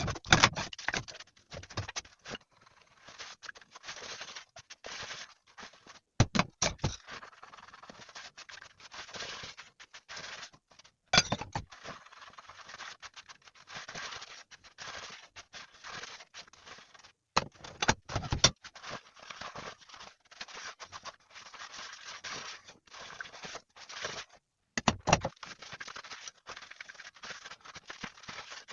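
Irregular scraping and rubbing noises from handling things during housework, broken by short pauses and several sharp knocks.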